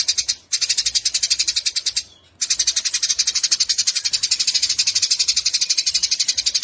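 Eurasian tree sparrow chattering in full voice: a fast, unbroken string of high chirps, about a dozen a second, that breaks off briefly twice, once near the start and again about two seconds in.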